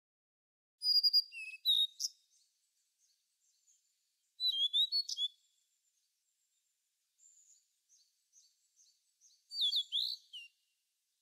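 Small songbird singing in three short bursts of quick, high chirps and down-slurred notes: about a second in, about four and a half seconds in, and again near the end, with faint chirps in between.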